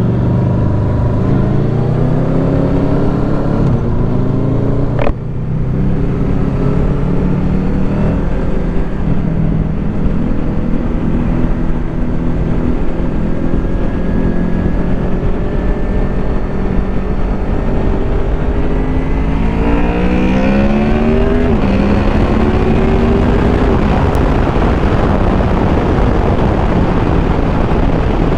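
Honda VFR800F's V4 VTEC engine through an SC Project Conic exhaust, under way: the revs climb, break off sharply about five seconds in, hold steady for a long stretch, and rise again about twenty seconds in, over a constant low rumble.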